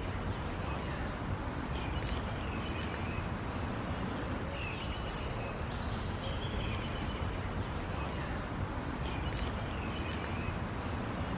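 Parrots giving short, shrill chirping calls every second or two over a steady low background rumble.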